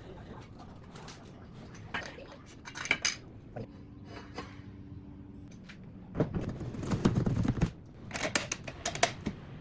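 Metal parts and tools clinking and clattering as they are handled, with a brief steady hum about four seconds in and a louder rumbling stretch a couple of seconds later.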